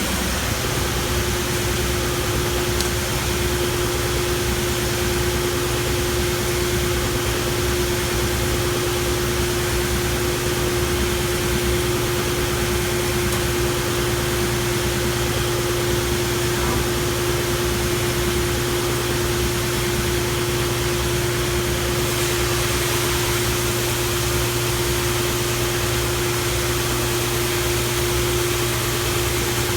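An 18 HP three-phase wide belt sander and its dust collector running together on a rotary phase converter: a steady machine hum with one constant tone over an even rush of air.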